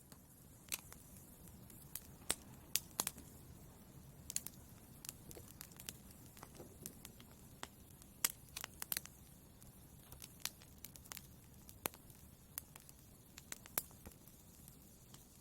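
Fire burning in a fireplace, crackling: irregular sharp pops and snaps, a few louder than the rest, over a low steady rustle.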